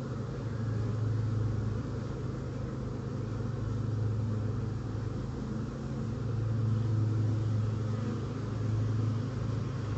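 Honeybees of a large colony in an open hive humming steadily, a low, even drone of many bees together.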